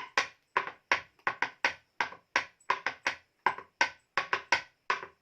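Pestle pounding rice in a mortar: sharp knocks about three a second in an uneven rhythm, some in quick pairs, each with a short ringing tone.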